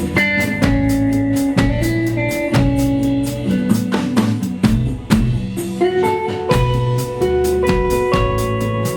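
A band playing live together: a drum kit keeping a steady beat under bass guitar and electric guitar playing held, changing notes.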